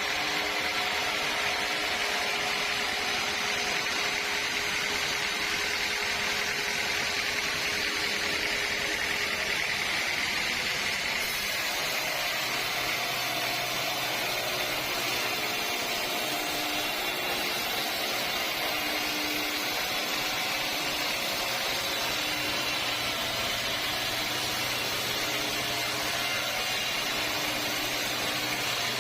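Sawmill saw and machinery running steadily on teak logs, with a high whine. About twelve seconds in, the tone changes and a low hum comes in.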